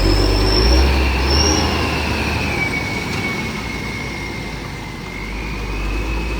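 Tank truck crawling through with a heavy low engine rumble and a long high squeal that dips and rises in pitch, with two short higher squeaks in the first second and a half.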